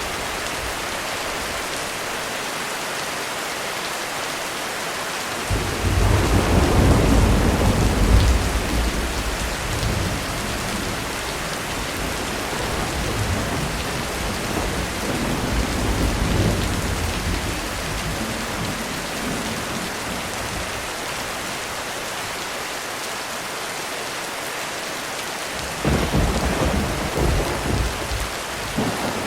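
Steady heavy rain on a roof with rolls of thunder. A long, loud rumble starts about five seconds in and fades over several seconds, a softer swell comes around the middle, and a shorter, broken rumble comes near the end.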